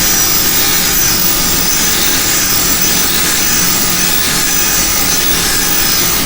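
Wood lathe running while abrasive paper rubs against the spinning cherry workpiece, a loud, steady rushing noise.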